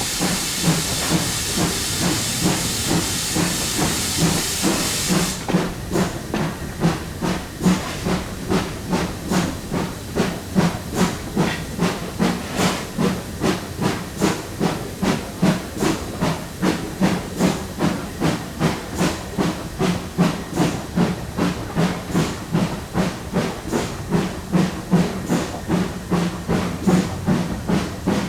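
Steam locomotive 7820 Dinmore Manor, a GWR Manor class 4-6-0, working hard with a loud, steady chuffing exhaust beat. A loud hiss of steam over the beats stops suddenly about five seconds in, and the chuffing carries on.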